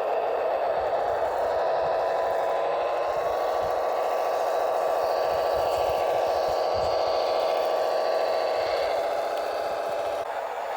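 Simulated Tatra 928 diesel engine sound played by an RC truck's engine-sound unit. The pitch climbs over the first few seconds as if revving, holds steady, then drops back near the end.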